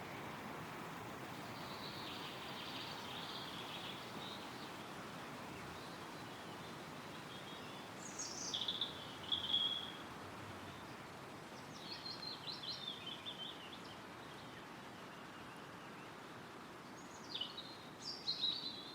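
Wind rustling through woodland trees as a steady hiss, with a songbird singing several short phrases of quick, falling notes; the loudest phrase comes a little before halfway.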